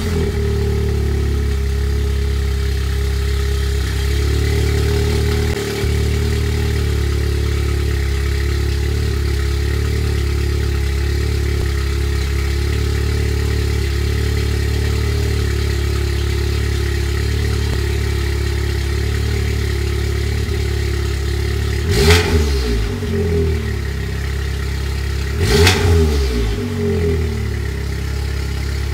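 APR Stage 2 tuned 2016 VW Golf R's turbocharged 2.0-litre four-cylinder engine idling steadily just after starting, its exhaust note low and even. About three-quarters of the way through it is revved twice in short blips, the pitch rising and falling each time.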